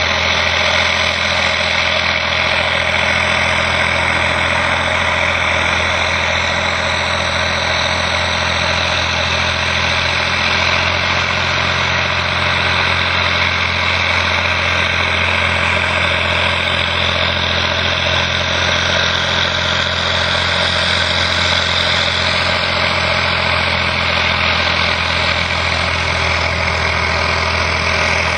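Steiger articulated tractor's diesel engine running steadily at an even speed.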